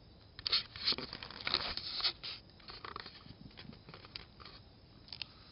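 Irregular rustling, scratching and scraping, as from something being handled or moved through brush, thickest in the first two seconds and then thinning out to a few scattered clicks.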